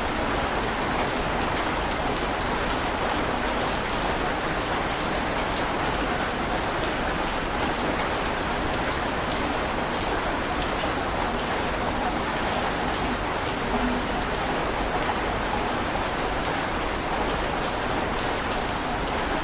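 Steady heavy rain: an even hiss with scattered drop impacts and no change in strength.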